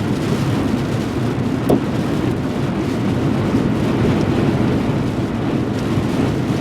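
Steady low rumble of road and wind noise inside a moving car, with one sharp click a little under two seconds in.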